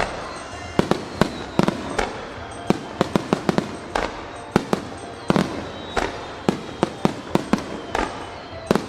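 Aerial fireworks shells bursting in rapid, irregular succession, several sharp bangs a second with short rumbling tails.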